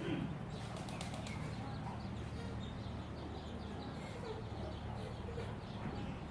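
Birds' wings flapping in a short flurry about a second in, with faint chirps over a steady low hum.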